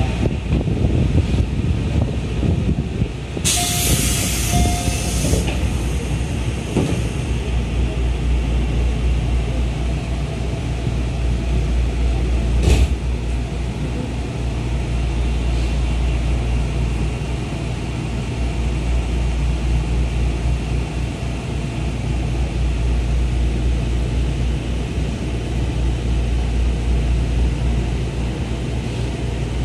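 Running noise inside a 211 series electric train car: a steady low rumble from the wheels and undercarriage. About three and a half seconds in there is a loud hiss of air lasting about two seconds, and a single sharp knock comes near the middle.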